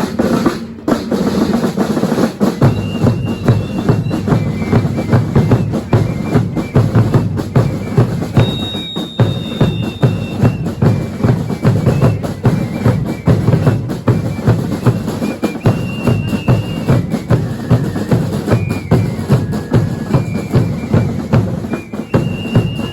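Drums of a Chilean religious dance troupe (baile religioso), bass drum and snare beating a fast, steady rhythm. High, whistle-like notes are held briefly over the beat.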